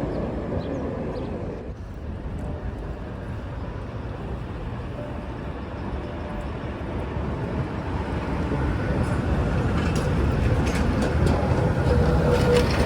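Electric street tram rolling on its rails, a steady rumble that grows louder toward the end, with a few clicks near the end.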